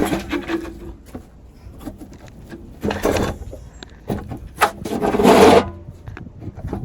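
Recoil pull-starter of a pressure washer's small engine being yanked several times, each pull a short rasping whirr of the cord and cranking engine, the last the loudest; the engine cranks but does not fire.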